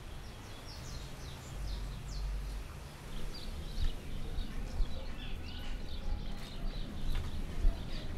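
Birds chirping, many short high calls in quick succession, over a steady low rumble of outdoor background noise.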